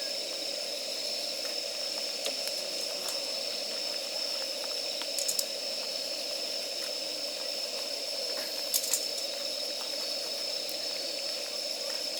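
Wood fire of damp firewood burning with a steady hiss, and a few sharp crackles about five and nine seconds in.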